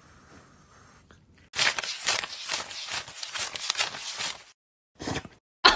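Quick scuffling and tapping for about three seconds, then silence and one short burst of rustling.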